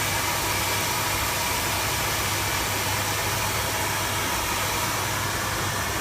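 Hair dryer blowing steadily, a loud even hiss of air over a low motor hum.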